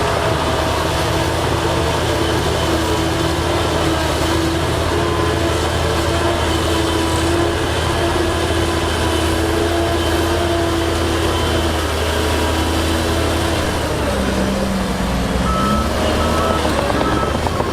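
Diesel engines of heavy earthmoving machinery running: a steady low rumble with a whining note that drops in pitch about two-thirds of the way through.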